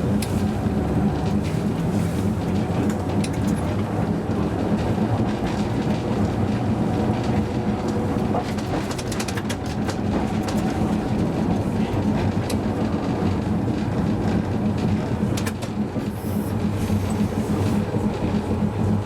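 Hakodate City Tram car 530 running along the line, heard from the driver's cab: a steady low hum of motors and gearing over the rumble of wheels on rail. A few sharp clicks come through, mostly around the middle and again later on.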